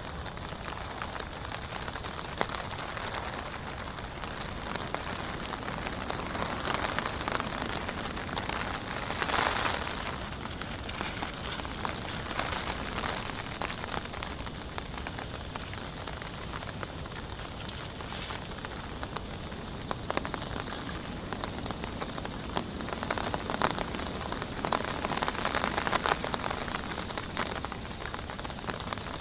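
Heavy rain falling steadily, with individual drops ticking on a nearby surface; it swells briefly about nine seconds in and again near the end.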